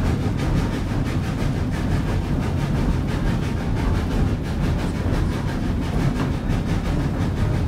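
Steady rumble and clatter of a moving narrow-gauge train, heard from aboard a coach hauled by a steam locomotive, with a faint even beat running through it.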